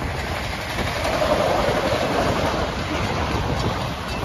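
Freight train of autorack cars rolling past, steel wheels running on the rails with a steady, loud rush and some clickety-clack.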